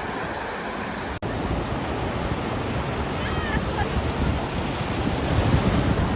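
Sea surf and wind, with wind buffeting the microphone; the sound drops out for an instant about a second in.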